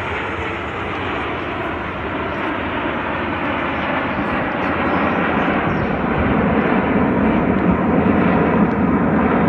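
Jet aircraft of the Snowbirds team (CT-114 Tutor jets) flying past in their display, a steady jet rush that grows louder through the second half as they close in.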